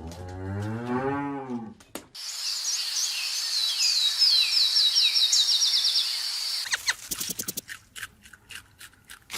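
A cow lowing in one long, deep moo that rises and falls in pitch, ending about two seconds in. It is followed by a steady high-pitched hiss with a rapid series of falling chirps, then a run of short, sharp calls.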